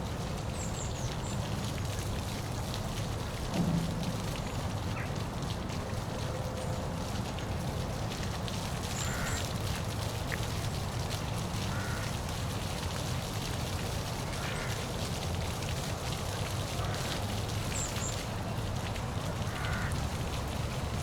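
Steady rushing of a park waterfall, with short bird calls now and then and a few brief high chirps over it.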